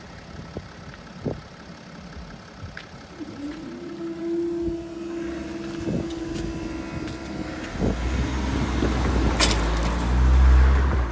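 Diesel passenger train approaching and passing a level crossing. A steady droning tone holds for about four seconds mid-way, then a heavy low engine-and-wheel rumble builds, loudest near the end.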